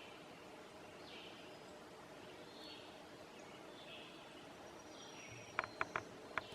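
A songbird repeating a short, falling call about every second and a quarter, over a steady outdoor background hiss. Near the end come four sharp clicks, the loudest sounds.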